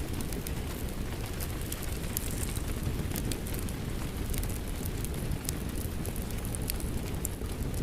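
Fireplace crackling, with frequent sharp pops and snaps from the burning wood, over a steady rumbling wash of rain.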